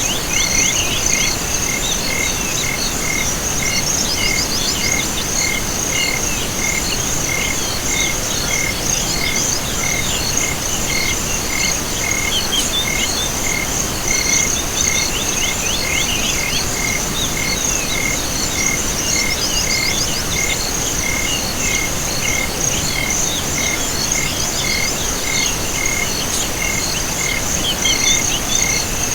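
Night chorus of insects and frogs: a steady high insect trill, a regular chirp about twice a second, and scattered short calls over a faint steady hiss.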